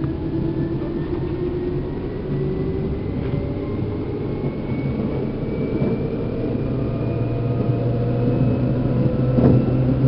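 Seibu New 2000 series electric train heard from inside its motor car: the traction motors' whine climbs slowly in pitch as the train gains speed, over a steady rumble of wheels on rail.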